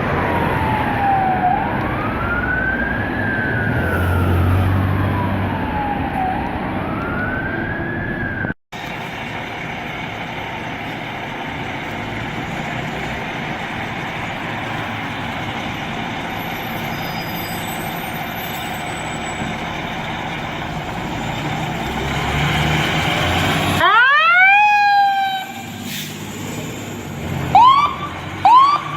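Emergency vehicle siren wailing, its pitch sliding slowly up and down. After an abrupt cut there is a long steady stretch of engine and road noise, and then, near the end, several quick rising siren whoops.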